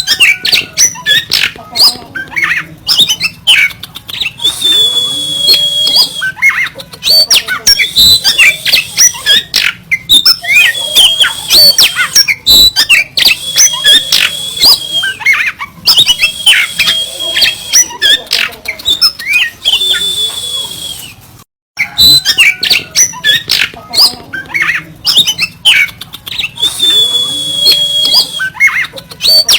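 Oriental magpie-robin (kacer) singing continuously in its harsh 'kasaran' style: rapid sharp, rasping chattering notes broken by repeated long, high held whistles. The song breaks off for a moment about two-thirds of the way through, then resumes.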